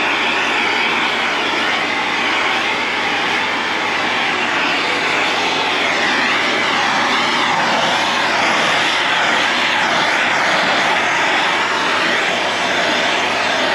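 Blowtorch flame running continuously, a loud steady rushing hiss, as it is played over sun-faded black plastic trim to darken it. It starts and stops abruptly.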